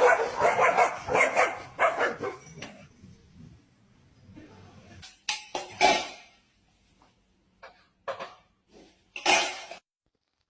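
A dog barking in short separate bursts over the second half, after a busier stretch of sound at the start, with music.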